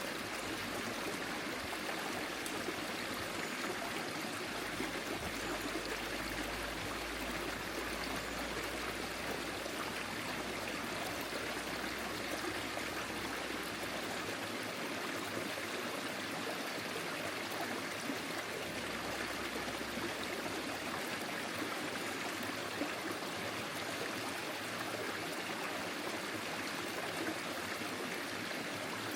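Small forest stream flowing steadily, water rushing and trickling over stones.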